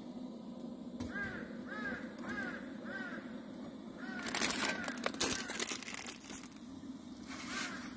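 A bird calling a series of short, repeated calls, roughly two a second, in a few runs. A loud burst of rustling, crackling noise comes in the middle.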